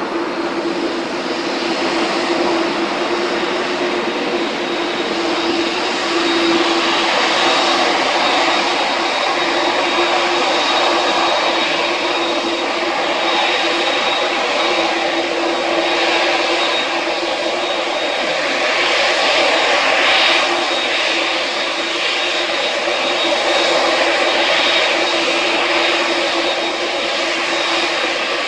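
Japan Airlines Boeing 787-8 jet engines running loud and steady, a dense roar carrying a constant low hum and a thin high whine, swelling slightly now and then.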